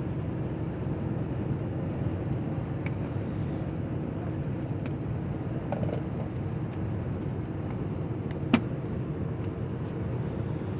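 Steady engine and road rumble inside a moving truck's cab, with a few light clicks and one sharper click about eight and a half seconds in.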